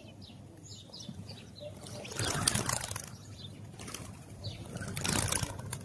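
House sparrows chirping in short repeated notes. There are two louder bursts of wing flapping, one about two seconds in lasting most of a second and another about five seconds in.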